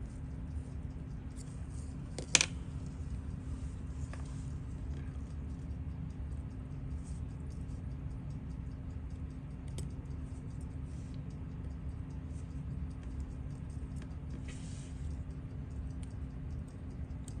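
Faint small clicks and taps of watchmaker's tweezers and screwdriver on parts of a Seiko 6138 chronograph movement being taken apart, with one sharper click about two and a half seconds in, over a steady low hum.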